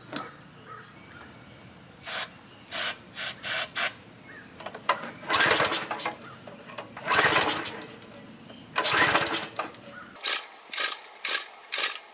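Pressure washer's small four-stroke engine being pull-started several times, each yank of the recoil cord cranking it briefly without it catching, even with starting fluid in the carburetor.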